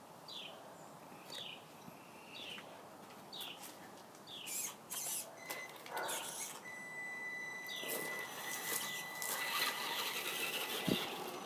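A bird repeating a short, falling chirp about once a second. In the second half come bursts of rough noise and a steady high-pitched whine, louder toward the end.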